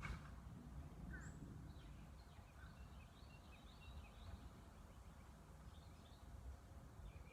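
Faint birds chirping: many short, scattered calls over a low, steady rumble.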